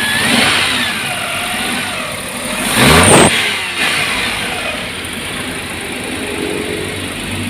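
Hyundai Eon's small petrol engine running with engine-flush additive in its oil, given one quick rev about three seconds in and then settling back to a steady idle.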